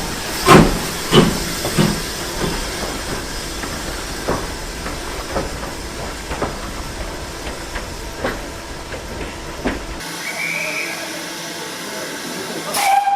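Steam locomotive exhaust beats, loud and about one every two-thirds of a second at first, then weakening and spacing out as the engine draws away, over a steady hiss. About ten seconds in the sound cuts to a quieter scene, with a sharp burst followed by a short steady tone near the end.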